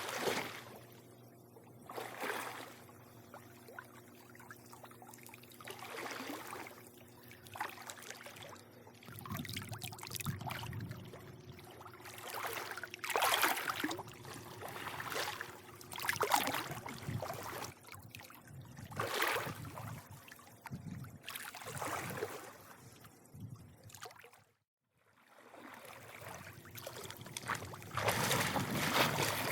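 Swimming-pool water lapping and sloshing in repeated swells every two to three seconds, over a steady low hum. The sound drops out completely for a moment about three-quarters of the way through.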